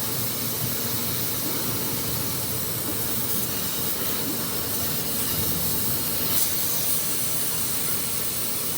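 Steady hissing noise at an even level, with no distinct knocks or tones.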